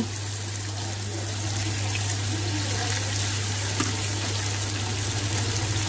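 Raw chicken pieces sizzling as they fry in hot ghee in a pot: a steady hiss over a low steady hum, with a faint knock or two of a wooden spatula.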